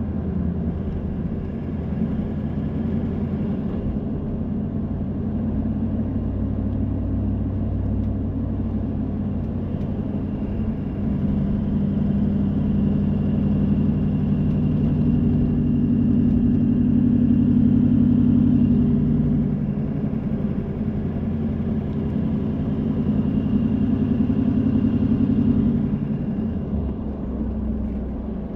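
Car engine and road noise while driving: a steady low engine hum that rises and eases off twice.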